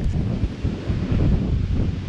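Wind buffeting the microphone in uneven gusts, a loud low rumble.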